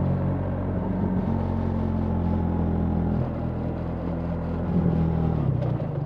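BMW R 1300 GS's boxer-twin engine running while under way. The engine note shifts about a second in and again about three seconds in, then falls near the end.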